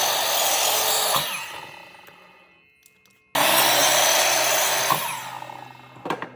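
A power tool working wood in two passes, each loud at first and then dying away. The second starts abruptly, and a short knock comes near the end.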